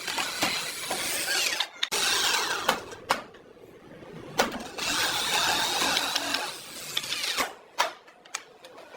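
Workshop power tool running in spells, with sharp knocks and taps between them, most of the knocks near the end.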